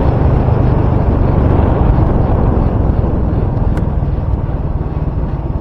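Wind buffeting a microphone wrapped in electrical tape: a loud, steady low rumble that the tape has not stopped.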